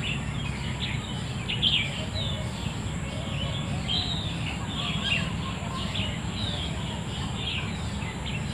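Many small birds chirping, a dense run of short high chirps and quick glides, over a steady low rumble.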